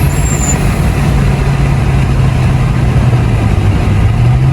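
Car engine running at steady revs, a constant low hum under a steady rushing noise.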